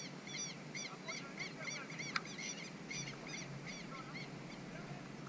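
Birds calling in a fast run of short, repeated chirps, about four or five a second, that stops near the end. A single sharp knock stands out about two seconds in.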